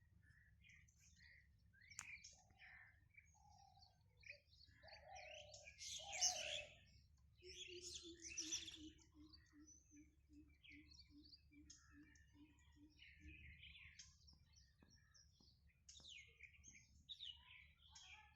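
Faint chorus of several birds chirping and calling. In the middle, one bird gives a long series of low hooting notes, about two or three a second, for around six seconds.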